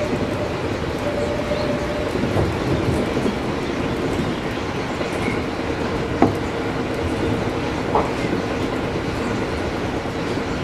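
Train running along the line, heard from the driver's cab: steady rolling noise with a faint hum and two sharp wheel knocks, about 6 and 8 seconds in.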